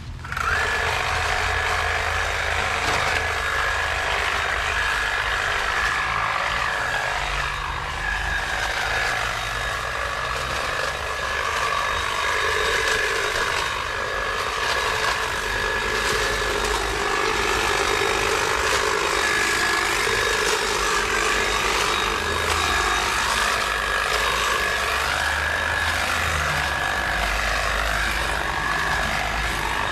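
Stihl battery-powered garden power tool running steadily, a constant high whine over motor and cutting noise, its pitch shifting a little under load.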